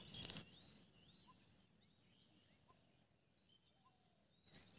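Faint bird chirps, scattered and thin, over a quiet open-air background. A short rush of noise sounds right at the start and another near the end.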